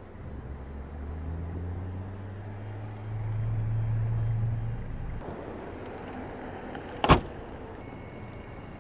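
Audi A5 2.0-litre turbocharged four-cylinder engine running at idle, a steady low exhaust note that swells a little about three seconds in and drops away about five seconds in. A single sharp knock comes about seven seconds in and is the loudest thing heard.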